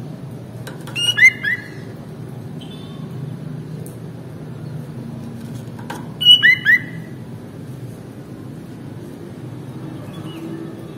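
Sooty-headed bulbul (kutilang) singing two short, bright phrases of three or four quick whistled notes, about five seconds apart, over a steady low hum.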